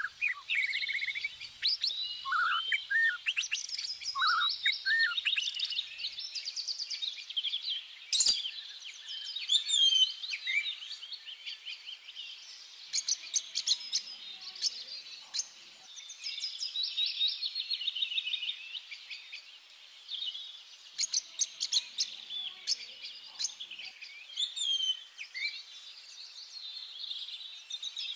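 Birds chirping and singing, many overlapping quick chirps, trills and short whistled glides. A single sharp click sounds about eight seconds in.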